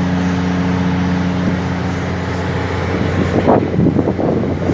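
A vehicle engine running at a steady idle hum, with gusts of wind buffeting the microphone over the last second or two.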